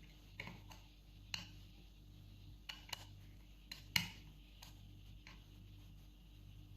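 Irregular small clicks and taps of a screwdriver and little screws being worked on a Singer 201P sewing machine's foot controller as its screws are tightened, the loudest tap about four seconds in.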